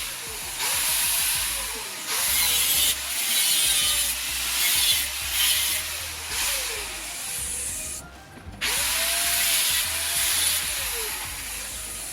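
Metalwork on a galvanized steel drain grate: repeated bursts of harsh hiss, each about a second long, with short gaps and a low hum under each burst. There is a longer pause about eight seconds in.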